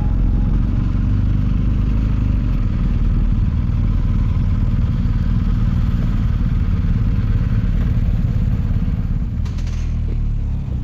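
Motorcycle engine running steadily while riding, a dense low rumble with road and wind noise.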